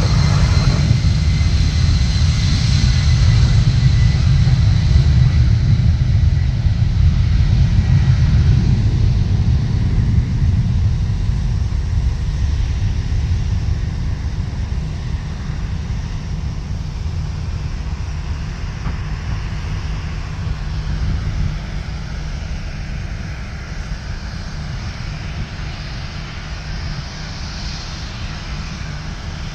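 Airliner's engines running with a heavy low rumble and a thin high whine, loudest over the first few seconds and slowly fading as the aircraft moves away.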